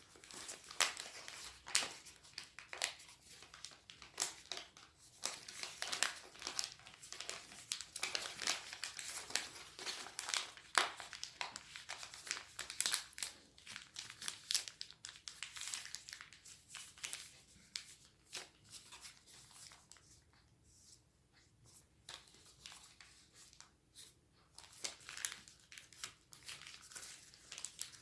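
A sheet of origami paper being folded and creased by hand: crisp crinkles and rustles with sharp little crackles as the folds are pressed. The handling goes quieter for a few seconds after the middle and picks up again near the end.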